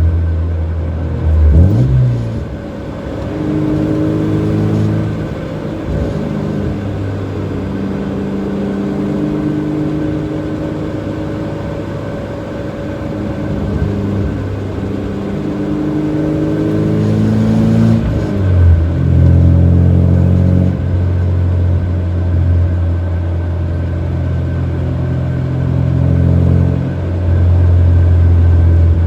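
Nissan S14 240SX exhaust through an HKS Hi-Power system, heard from inside the cabin while driving. The engine note climbs with the revs and drops at gear changes, near the start and about two-thirds of the way in, then settles into a steady low drone.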